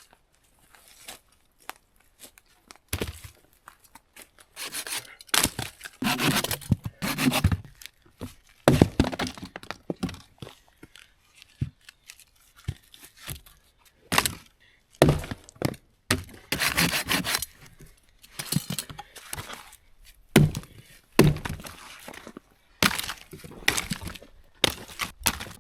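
Dry sticks and branches cracking and snapping, with crunching and dull thuds in irregular bursts, as when firewood is broken up by hand.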